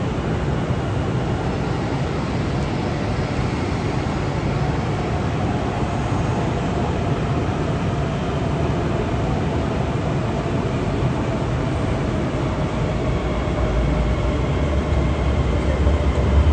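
CRH high-speed electric train moving slowly through the station: a steady rumble with a faint whine that slowly falls in pitch. A deeper rumble builds near the end.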